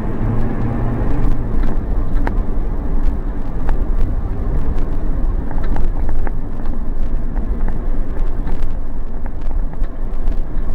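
Car driving slowly, a steady low rumble of road and engine noise heard from inside the cabin, with a few small ticks and rattles.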